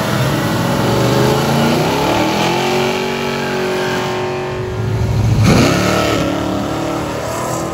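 Engine of a 1973 Plymouth Duster drag car revving hard through a burnout and launch, its pitch climbing and falling, with a sudden drop and climb about five and a half seconds in.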